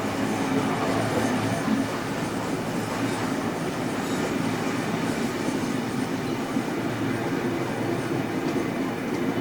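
Heritage passenger train hauled by steam locomotive 3801 running along the line: a steady rumble of carriage wheels on the rails.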